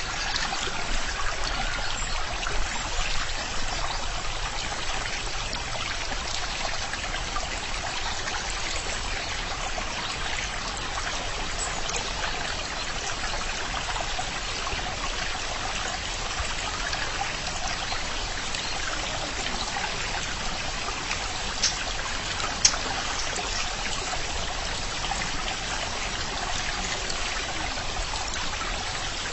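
Steady running water, a stream trickling, with a couple of brief sharp clicks about three-quarters of the way through.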